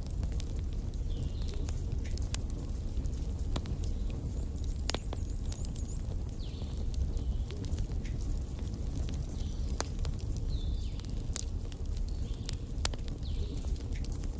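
Wood fire burning: irregular sharp crackles and pops from the burning logs over a steady low rumble of the flames.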